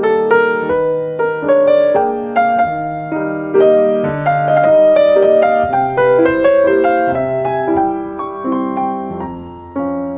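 Solo piano music: a slow melody of single notes and chords, each struck and decaying, over held bass notes.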